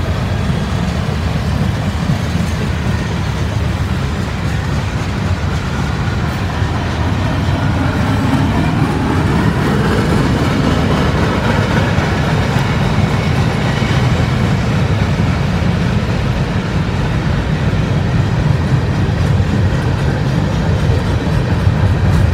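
Freight cars of a CSX train rolling past: flatcars loaded with rail, then gondolas. Their steel wheels make a steady, loud rumble and clatter on the track.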